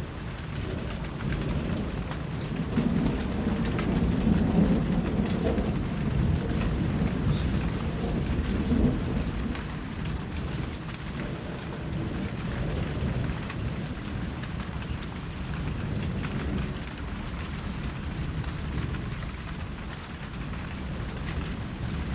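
Steady rain falling, with a long low roll of thunder that swells over the first few seconds and dies away by about ten seconds in.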